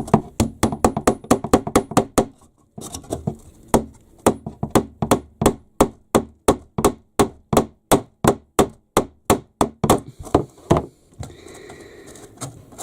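A hammer striking wood in a fast, steady run of blows, about three to five a second. There is a short pause about two seconds in, and the blows stop about eleven seconds in.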